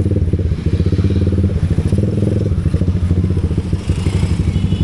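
Motorcycle engine running steadily with a rapid, even pulsing.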